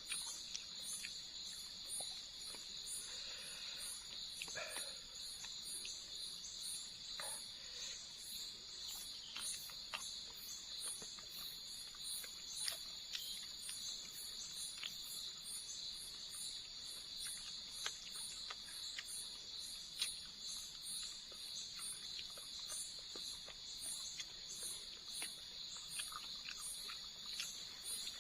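Night insects such as crickets: a steady high-pitched drone with a faster, evenly pulsing chirp above it, about two pulses a second. A few faint clicks sound now and then.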